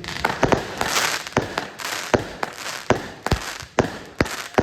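Fireworks going off: a quick, irregular string of about a dozen sharp bangs, two or three a second, with crackling between them.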